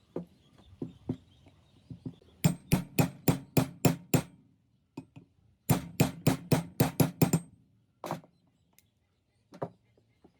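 Hammer striking metal in two quick runs of about eight or nine blows each, roughly five a second, with a faint metallic ring. A few lighter knocks come before the runs, and two single blows follow them.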